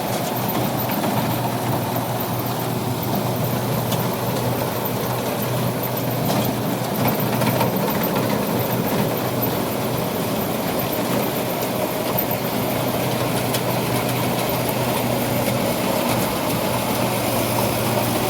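Rice combine harvester running steadily, its diesel engine holding one low, even hum with the clatter of the machinery over it.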